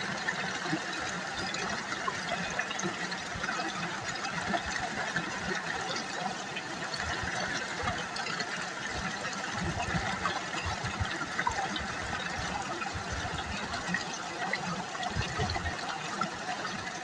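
River water babbling and splashing over stones, a steady rush with many small droplet ticks.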